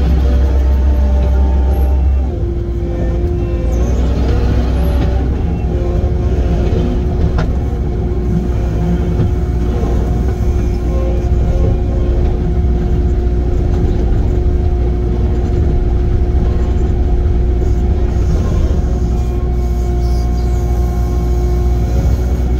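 Diesel engine of heavy earthmoving equipment running steadily with a deep hum and steady whining tones, which shift in pitch about two seconds in as the load changes.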